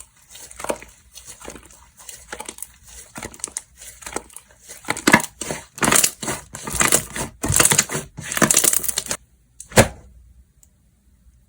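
Slime being squished, folded and pressed by hand, giving quick clicking, popping and crackling sounds. The play stops about nine seconds in, leaving one last sharp click a moment later.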